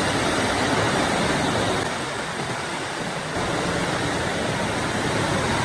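Steady rain, a dense even hiss.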